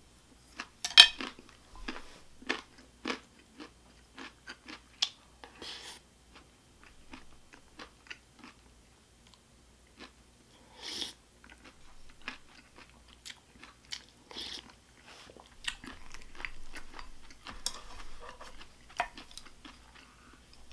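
Close-miked mukbang eating: a person chewing and biting food with wet mouth clicks and smacks, a few longer slurps or sucks mixed in.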